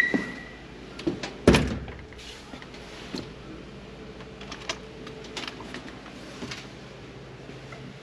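A brief high squeak, then a loud thump about a second and a half in, followed by scattered light knocks and clicks over a faint steady hum.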